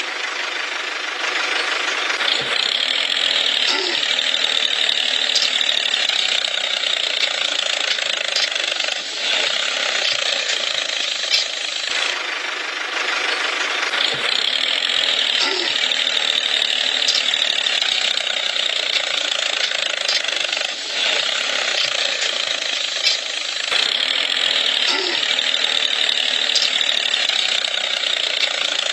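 Small motor of a homemade model tractor and water pump running steadily with a fast rattling clatter.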